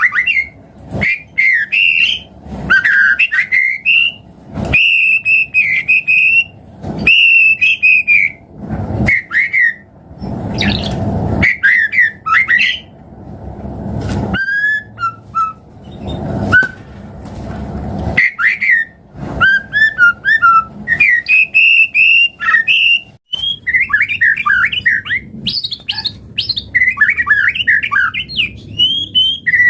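White-rumped shama singing: loud, varied phrases of whistles and fast chattering notes, delivered in short bursts with brief pauses between them.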